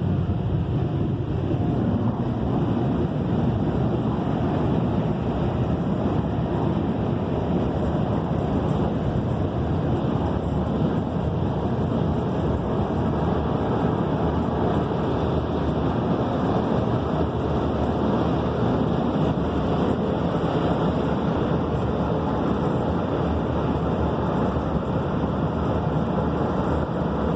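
PDQ Max Air car wash dryers blowing a steady, loud blast of air over the car at the end of the wash cycle.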